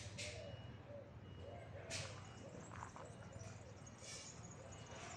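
Faint outdoor ambience with a soft bird call repeating every half second or so, broken by three brief rushing swishes about two seconds apart.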